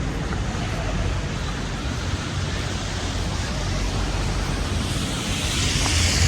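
Steady city street noise, a low rumble with a hiss, and a vehicle coming closer and growing louder near the end.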